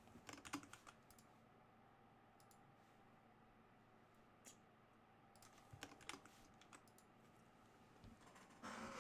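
Faint computer keyboard typing: short bursts of keystrokes with pauses between.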